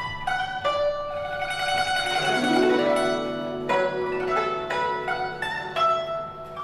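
Guzheng (Chinese plucked zither) played solo: a run of sharply plucked notes that ring on, with a rising pitch bend in the low strings about two seconds in.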